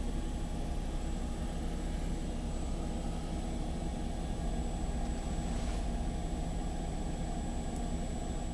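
Mercedes Sprinter van's diesel engine idling, a steady low hum heard from inside the closed rear cabin, with a faint steady high-pitched whine over it.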